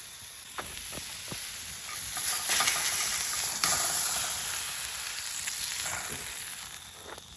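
Food sizzling over a campfire, with a few light clicks in the first second; the sizzle swells about two seconds in and dies down near the end.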